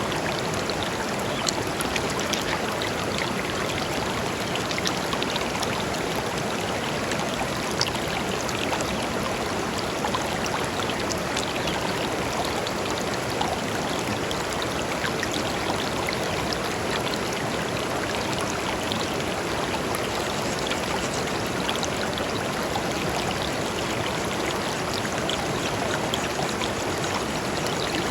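A small river flowing steadily over stones, a continuous rushing with small splashes and trickles.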